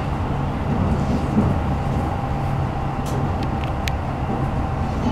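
Keikyu New 1000 series commuter train running, heard inside the passenger car on the Toyo hybrid SiC VVVF inverter side: a steady low rumble with a steady faint whine over it, and a few light high clicks about three to four seconds in.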